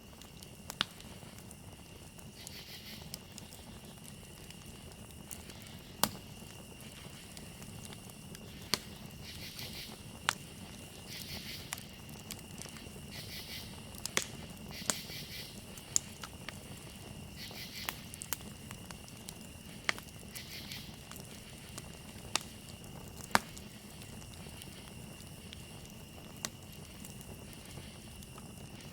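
Campfire crackling, with sharp pops of burning wood every second or two over a steady low rumble. A constant high cricket trill runs underneath, with short bursts of louder insect chirping now and then.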